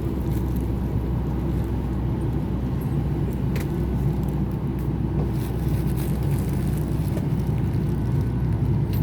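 Steady low engine rumble of a running vehicle, unchanging throughout, with a couple of faint ticks.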